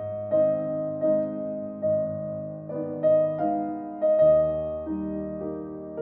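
Slow instrumental piano music: single notes and chords struck about every three-quarters of a second, each left to ring and fade.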